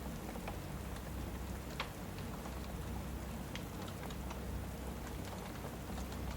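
Steady rain with scattered sharp crackles and pops from a fireplace, over a low steady rumble.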